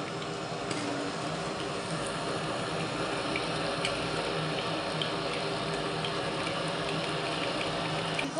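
Chicken korma sizzling and bubbling in a metal pot as it is fried, with a ladle stirring it and scraping the pot now and then. One sharp knock near the end.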